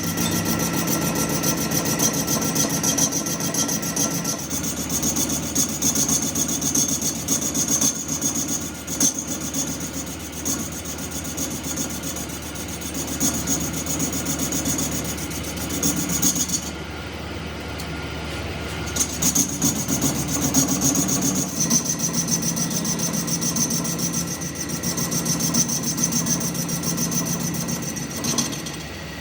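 Continuous rasping, scraping sound of metal being worked by an abrasive or cutting tool on the pump housing, with a steady high whine that drops out briefly just past the middle.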